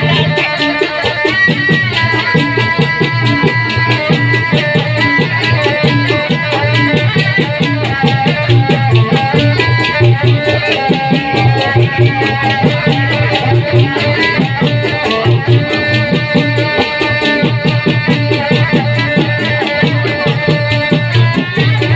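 Dikir barat ensemble music: hand drums playing a dense, steady rhythm under held melodic notes.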